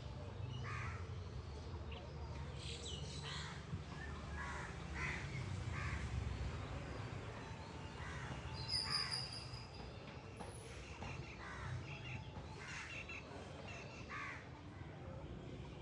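Birds calling, short calls one after another about once a second, with a low steady hum underneath.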